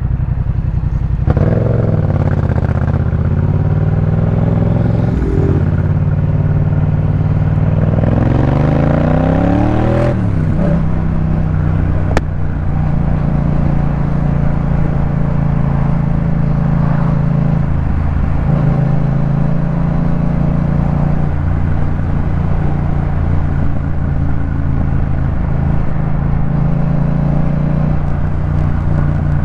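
Yamaha MT-07's 689 cc parallel-twin engine through a Jeskap K4 full exhaust, under way. It rises in pitch for a few seconds about a third of the way in, drops sharply at a gear change, then runs at a steadier cruise.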